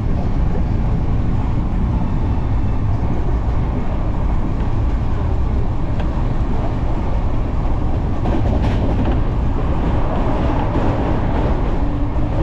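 Passenger train running at speed, heard from inside the carriage: a steady loud rumble of wheels on the track, with a few faint clicks in the last few seconds.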